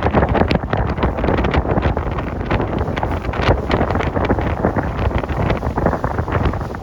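Loud wind buffeting the microphone in uneven gusts.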